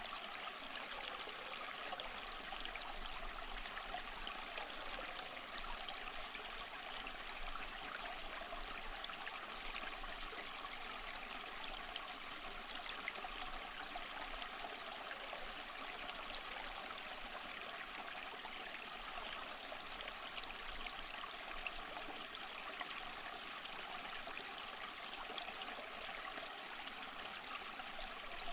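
Waterfall: running water making a steady splashing rush with fine crackling spatter, unchanging throughout.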